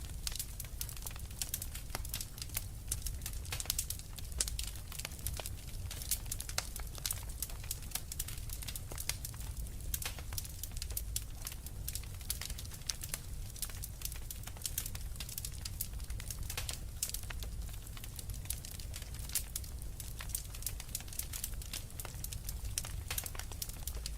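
Wood fire crackling steadily: many small irregular snaps and pops over a low rumble of the flames.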